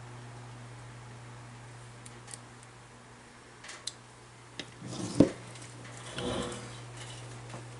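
Small tools or metal parts being handled on a workbench: a few light clicks, one sharp louder knock about five seconds in, then a brief rustle, over a steady low hum.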